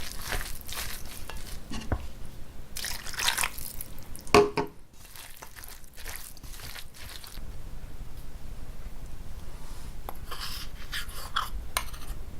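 Kitchen food-prep sounds: a wet, squelching mixture being stirred or handled in a bowl, with a sharp knock of a utensil about four seconds in and lighter scraping near the end.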